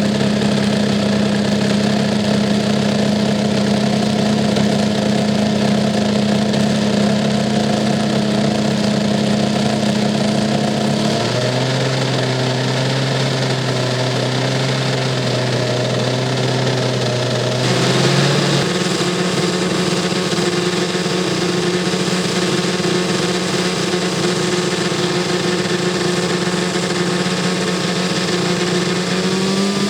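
Two-cylinder inline two-stroke engine of a large RC P-51D Mustang model, geared down to a four-blade propeller, running steadily. Its note shifts to a new steady speed about eleven seconds in, shifts again around eighteen seconds, and rises slightly near the end.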